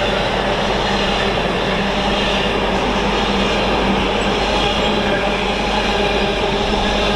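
Freight train hauled by a Class 66 diesel locomotive passing close by. It makes a loud, steady rolling noise of wheels on the rails, with a few steady tones held over it.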